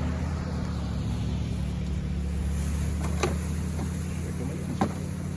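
A motor or engine running steadily with a low hum, with two sharp clicks or knocks about three and five seconds in.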